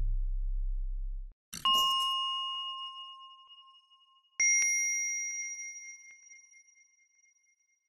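Two single ding chimes, the second higher-pitched than the first, each ringing out and fading over a few seconds, after a low drone dies away at the start.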